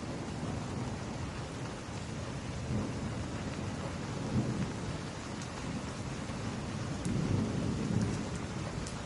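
Steady rain on window glass with a few faint crackles from a wood fire, and low rumbles swelling about four seconds in and again around seven to eight seconds in.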